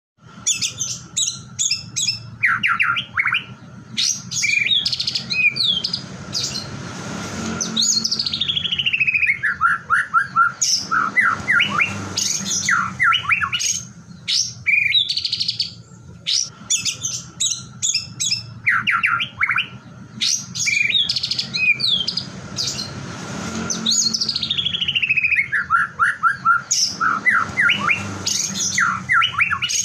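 White-rumped shama (murai batu) singing a fast, varied song of whistles, trills and sharp rattling notes, twice running down in a long falling series of notes. The same song passage repeats about every 16 seconds, over a faint steady tone.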